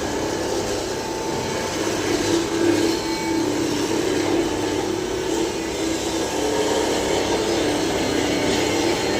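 Steady machine noise with a low hum, a little louder from about two seconds in.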